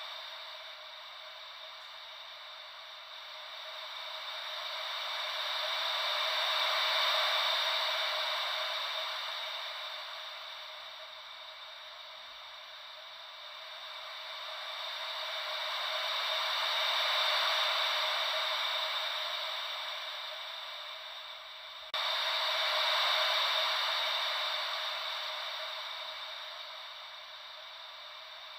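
Ocean-wave white noise: a steady hiss with no deep rumble that swells and fades slowly, about once every ten seconds, like waves washing in. About three quarters of the way through it jumps abruptly louder, as at a loop or edit point.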